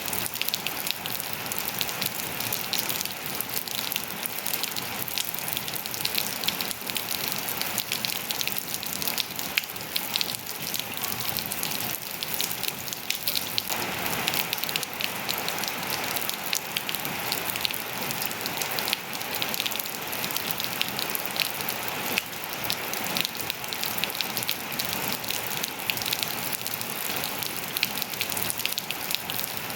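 Steady rain falling, with dense drop ticks pattering on surfaces.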